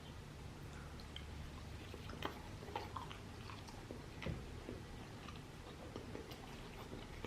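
A person chewing food, with soft wet mouth clicks and crackles scattered through the chewing.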